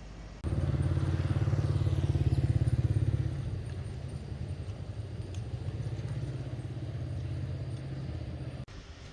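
Electric piston air compressor switched on and running with a fast, even pulsing, loudest for its first three seconds, then cutting off abruptly near the end.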